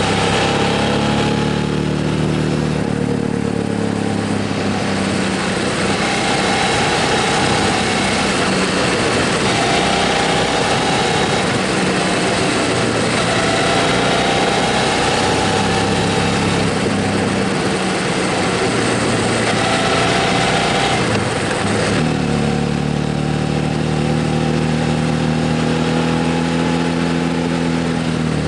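Motorcycle engine running while riding, its note rising and falling with the throttle, under a steady rush of wind and road noise. About three quarters of the way through, the rush eases and a steadier, lower engine note comes forward.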